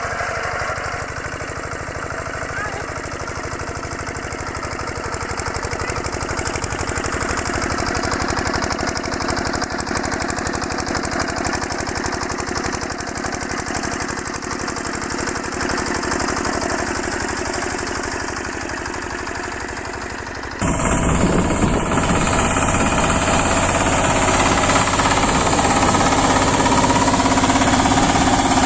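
Small walk-behind tractor engines running steadily with a fast, even knocking beat. About two-thirds of the way through the sound cuts suddenly to a different, louder engine.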